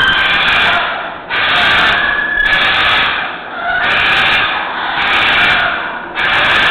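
A macaw screeching loudly, harsh raspy calls in about four long drawn-out bursts with brief breaks between them.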